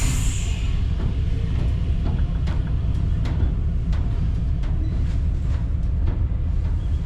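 DPL-1 diesel train running along the track: a steady low rumble with sharp clicks at uneven intervals, like wheels over rail joints. A high hiss dies away at the very start.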